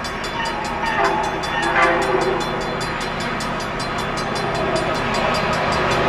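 Trains approaching on the railroad: locomotive and wheel noise that grows slowly louder, with a train horn sounding. Under it runs an even, rapid ringing of about five strokes a second.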